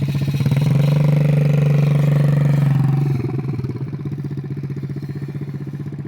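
A 50cc dirt bike engine running under a little throttle, its note swelling for a couple of seconds and then easing off about three seconds in to a quieter steady run.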